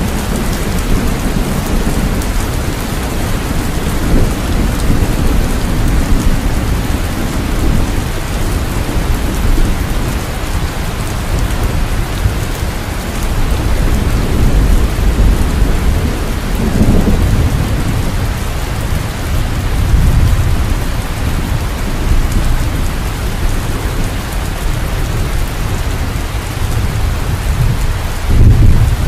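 Steady heavy rain falling, with low rolling thunder that swells up a few times, the loudest rumble near the end.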